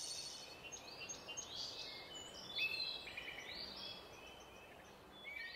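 Faint birdsong: many short chirps and trills from several birds over a low, steady hiss of outdoor ambience.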